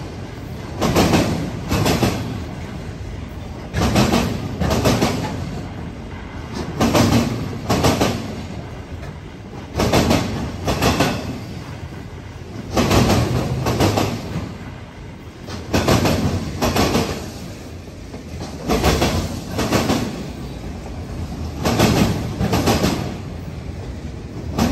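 Freight train of autorack cars rolling past at slow speed, steel wheels clacking over a rail joint in pairs about every three seconds as each car's trucks cross it, over a steady rumble of the cars.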